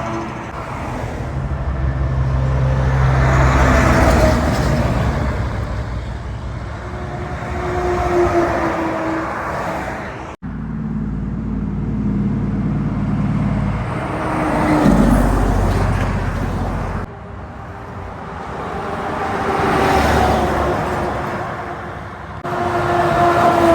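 Heavy trucks passing one after another on a highway, engine and tyre noise swelling as each approaches and fading as it goes by. The sound changes abruptly three times, about ten, seventeen and twenty-two seconds in, as one pass is cut to the next.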